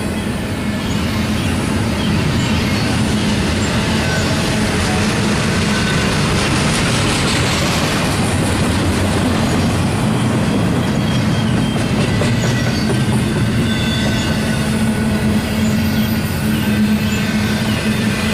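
Double-stack intermodal train rolling past: steady, loud noise of steel wheels on rail, with faint high wheel squeals now and then.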